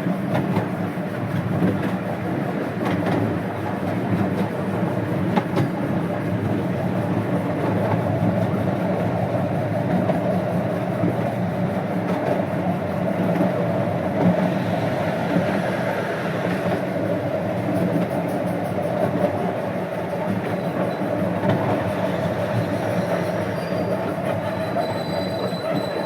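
A 12-inch gauge steam train running along the track, with steady running noise and wheels clicking over the rails. A faint high squeal comes in near the end.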